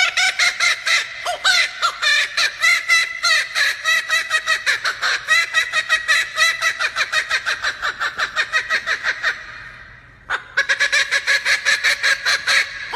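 Male laughing kookaburra giving its laughing call: a long run of rapid repeated notes that trails off and fades about two-thirds of the way through, then starts up again loudly a moment later.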